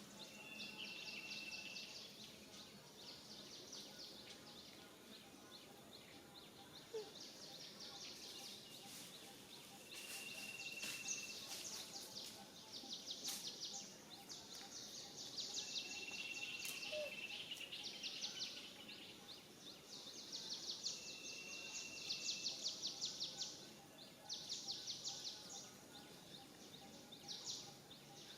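Outdoor wildlife ambience: repeated bursts of fast, buzzy pulsed chirping, each lasting one to three seconds, with four short, thin, steady whistles among them over a faint background hiss.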